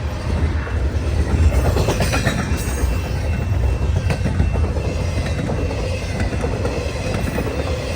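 Freight train's cars rolling past: a steady low rumble of wheels on rail, with scattered clacks over rail joints and a faint high wheel squeal.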